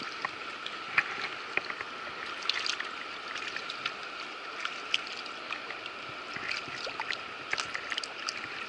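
River current rushing steadily over rocks, with scattered small splashes and clicks.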